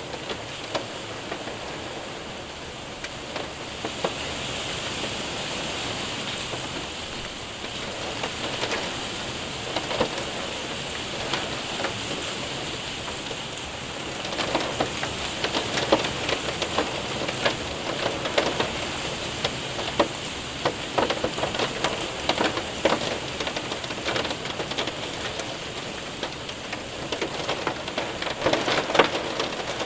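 Rain and hail hitting a window and roof: a steady hiss of rain with many sharp ticks of hailstones striking, the strikes growing denser and louder about halfway through.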